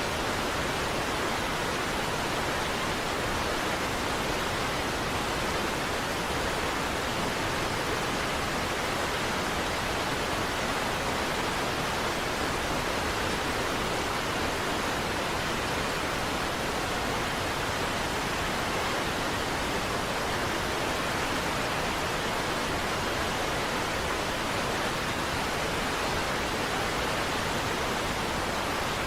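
Niagara Falls' water pouring down in a steady, unbroken rush, an even wash of noise with no separate splashes or changes.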